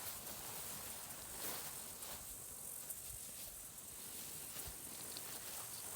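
Faint open-field ambience: a steady high-pitched hiss with a few faint rustles and ticks.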